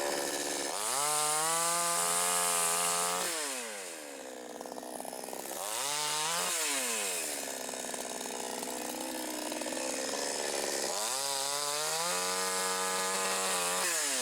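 Petrol chainsaw engine revved to full throttle for a couple of seconds, dropping back to idle, blipped briefly, then held at high revs again near the end.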